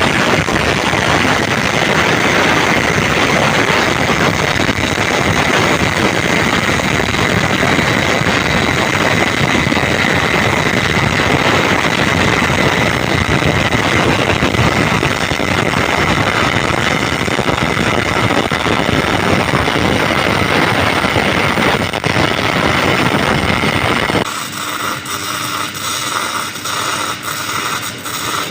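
Electric welding arc crackling steadily and loudly for about 24 seconds, then cutting off abruptly. A quieter run of regular ticking follows near the end.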